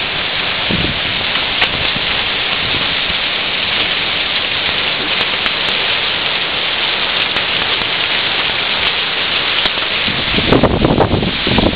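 Heavy rain mixed with hail pouring down in a severe thunderstorm: a steady dense hiss with a few sharp clicks. A low rumble swells near the end.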